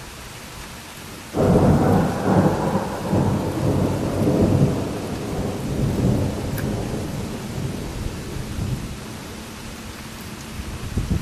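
Thunder over steady rain: a clap breaks suddenly about a second and a half in, then rolls in several loud rumbling surges for a few seconds before dying away, while the rain keeps up its even hiss.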